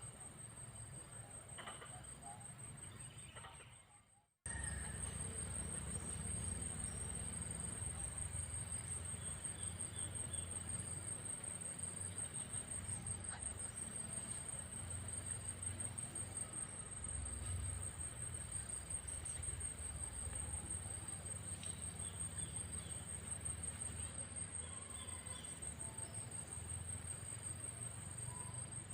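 An insect's continuous, very high-pitched pulsing trill, over a low rumbling background. It starts abruptly about four seconds in, after a brief silence.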